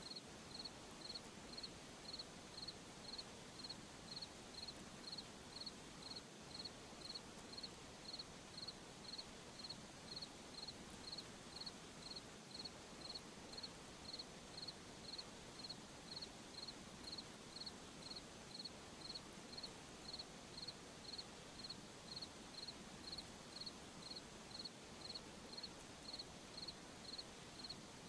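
Cricket chirping: one high chirp repeated steadily about one and a half times a second over a faint background hiss.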